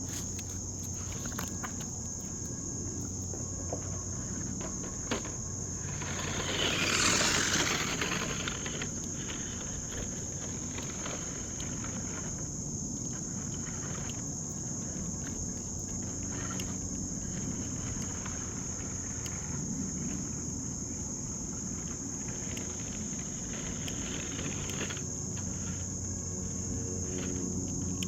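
Steady high-pitched chirring of insects, a cricket-like chorus, with a brief swell of rushing noise about seven seconds in.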